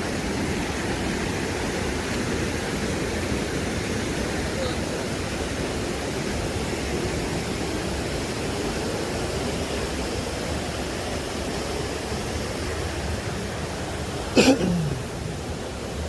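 Steady rush of a river and small waterfalls. Near the end comes one brief loud thump whose lower part falls in pitch.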